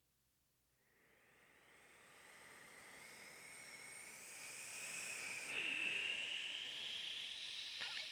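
A long breath sucked in close to a microphone: a hissing rush with a whistling edge that starts about a second in and grows steadily louder, its whistle rising slightly in pitch.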